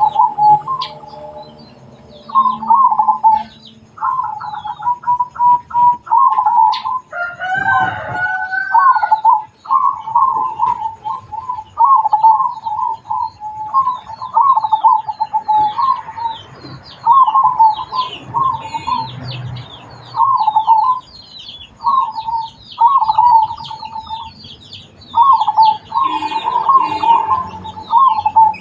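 Zebra doves (perkutut) cooing: short bubbly phrases of quick coos repeated one after another. High-pitched chirping from small birds runs above them, and a louder, drawn-out call from a different bird comes about eight seconds in.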